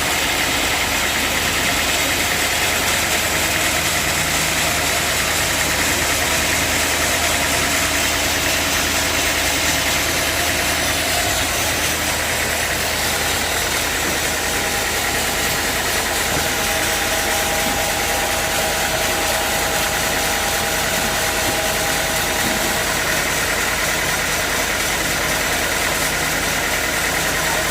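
Sawmill machinery running: a steady engine drone with a constant hiss over it, and a faint higher tone joining in for several seconds about two-thirds of the way through.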